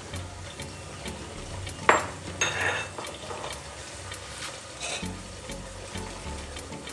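Tomatoes, onions and green chillies sizzling in hot oil in an aluminium pressure cooker. A sharp click about two seconds in, the loudest moment, is followed by a short burst of louder sizzling, and another brief burst comes near five seconds.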